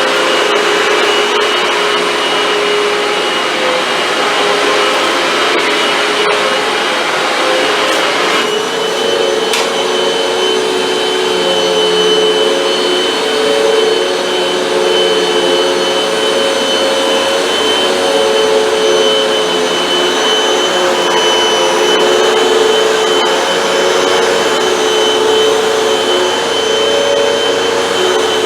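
Hoover WindTunnel 2 bagless upright vacuum cleaner running steadily, a constant motor whine over rushing airflow. About eight seconds in, its pitch and tone shift slightly.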